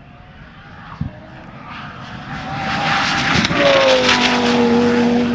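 Twin-turbo Lamborghini Gallardo V10 at full throttle on a high-speed pass, growing louder as it approaches. Its engine note drops in pitch as it goes by, about three and a half seconds in, then holds steady over a wide rush of wind and tyre noise.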